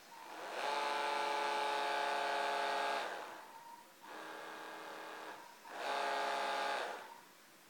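Small electric motor of a remote-controlled fishing boat whining in three runs, each starting and stopping. The second run is quieter.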